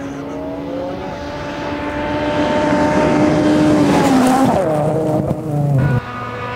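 Rally car engine at high revs, its pitch climbing and growing louder for about four seconds, then wavering and falling as the throttle comes off. About six seconds in the sound switches abruptly to another steady engine note.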